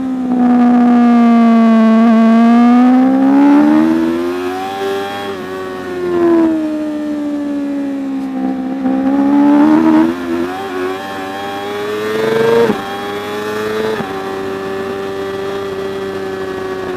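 Superbike motorcycle engine at racing speed, its pitch rising and falling with the throttle and gear changes. It drops sharply about 13 seconds in, then runs at a steady pitch.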